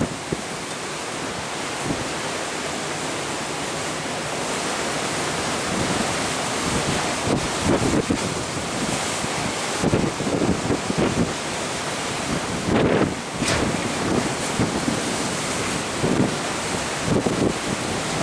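Steady rush of wind and sea wash from on board a ship under way, with wind gusts buffeting the microphone several times in the second half.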